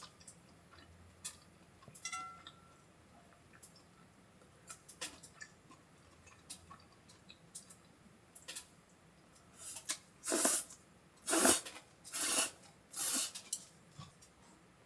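A person chewing food close to the microphone: a few faint clicks, then four loud bursts of chewing about a second apart near the end.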